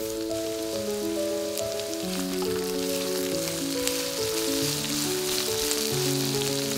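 Food sizzling and crackling in hot oil in a frying pan, under background music.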